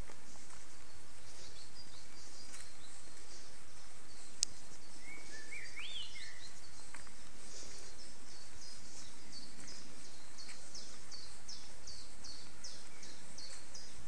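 Small songbirds calling over steady background noise: a repeated series of short, high, downward-slurred notes that come faster in the second half, about two a second near the end, with a brief warbling phrase lower in pitch about five seconds in. A single sharp click about four seconds in.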